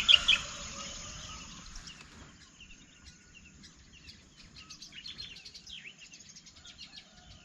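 Small birds chirping and calling, many short high chirps in quick succession, loudest in the first half-second and fainter after about two seconds.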